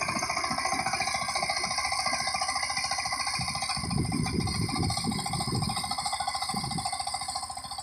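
Power tiller's 20 hp diesel engine running steadily with an even pulsing beat.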